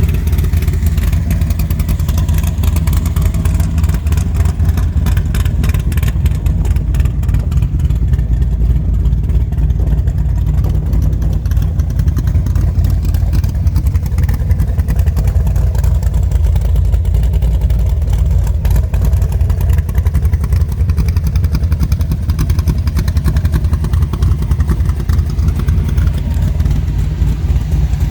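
Shelby 468 cubic-inch V8 engine running loud and steady, its sound mostly low-pitched.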